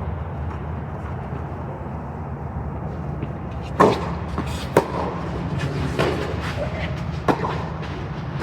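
Tennis balls struck by rackets in a doubles rally: four sharp hits about a second apart, starting around halfway through, with fainter ticks between, over a steady low rumble.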